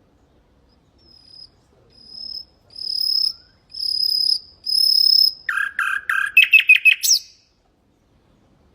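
Nightingale singing one phrase: about five pure whistled notes that grow louder one after another, then a fast rattling trill that ends in a quick upward note.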